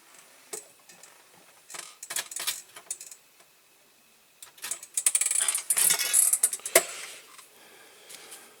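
Small metal parts and tools clinking and rattling as they are handled: a few light clicks in the first three seconds, then a denser burst of jingling clatter from about four and a half to seven seconds in.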